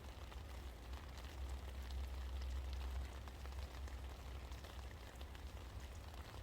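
Steady rain falling, an even hiss with scattered drop ticks, under a low rumble that swells about two seconds in.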